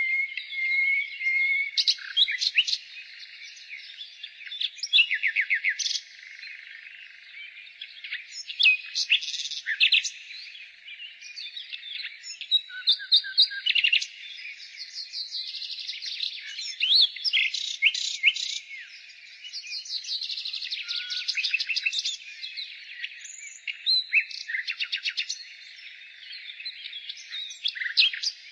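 Common nightingale singing: varied phrases of fast repeated-note trills, whistles and short glides, each a second or two long with brief pauses between.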